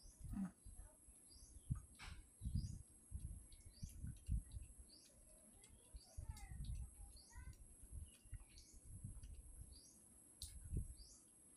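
Small birds chirping: short high chirps repeating every half second to a second, with a run of lower falling notes in the middle. Soft, irregular low thuds sound underneath.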